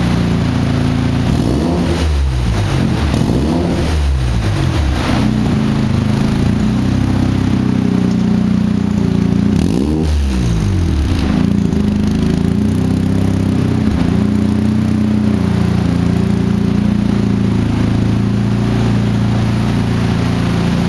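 Mazda RX-7's 13B-REW twin-turbo rotary engine running through a custom 3-inch SMB exhaust with a catless midpipe, loud. It mostly idles. It is revved briefly a few times between about two and five seconds in, and once more about ten seconds in.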